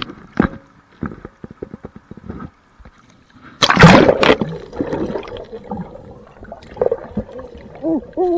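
Water splashing around a kayak on moving water, with scattered short knocks and one loud splash lasting under a second about four seconds in. A voice starts near the end.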